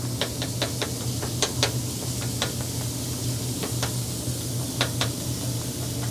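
Chopped-cheese meat sizzling on a flat-top grill, with metal spatulas clicking and scraping irregularly against the griddle as it is chopped. A steady low hum runs underneath.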